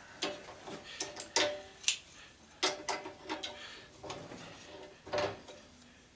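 Irregular metallic clinks and taps of hand tools against metal parts of an old belt/disc sander being taken apart, about a dozen over the span, some with a brief ring.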